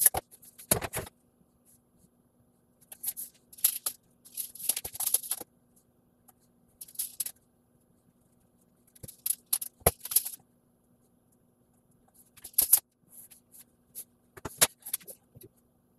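Handling noises at a workbench: scattered knocks, clicks and scrapes as wooden boards and hand tools are moved about, over a faint steady hum.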